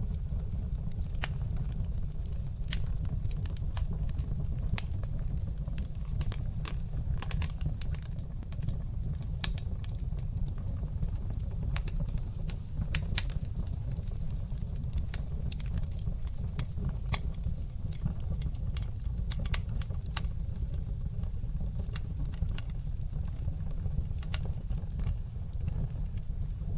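Wood fire burning in a fireplace: a steady low rumble of the flames with irregular crackles and sharp pops, a few louder pops scattered through.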